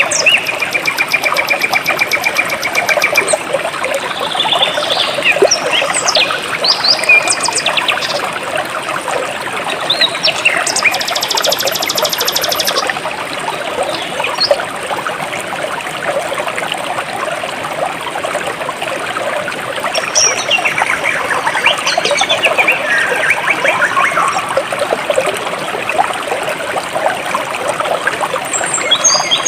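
Jungle stream flowing steadily, with birds calling over it: a held whistle at the start, a fast high trill about ten seconds in, and a run of falling chirps past the middle.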